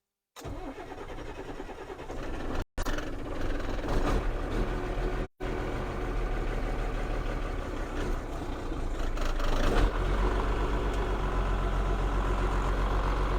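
Ford 6.6L Brazil inline-six diesel of a CF7000 truck on a cold start: the engine cranks and catches ragged and uneven, picks up about ten seconds in, then settles into a steady idle.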